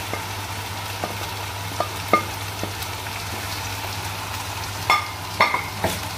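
Chopped okra sizzling as it is stirred into frying chicken masala in a nonstick wok, with a steady low hum underneath. The spatula knocks against the pan a few times, loudest near the end.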